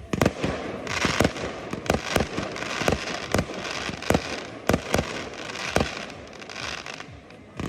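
A fireworks display: a rapid run of about a dozen sharp bangs from bursting aerial fireworks, with crackling between them in the first half.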